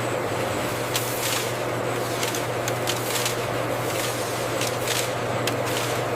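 Food-processing machinery running with a steady low hum, with a scattered series of short, light rustling clicks over it.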